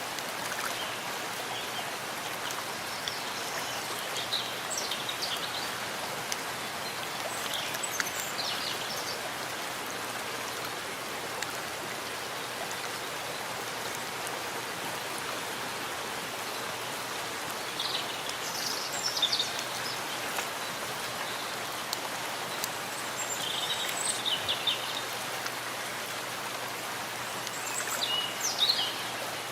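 Steady rain falling in a forest, an even patter of drops on leaves and ground. A few bursts of short high bird chirps come through the rain now and then.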